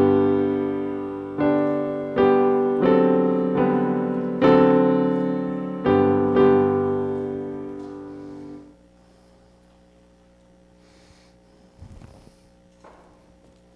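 Piano playing slow, struck chords that ring and fade, ending about nine seconds in. After that a low steady electrical hum remains, with a couple of faint knocks.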